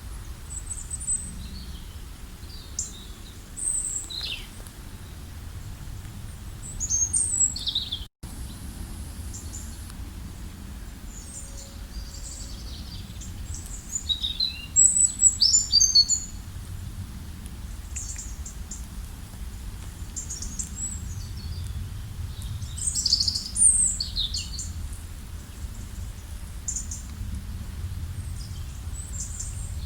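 Several songbirds chirping and calling in short high notes and trills, busiest around the middle and again near the end, over a steady low rumble. The sound drops out for an instant about eight seconds in.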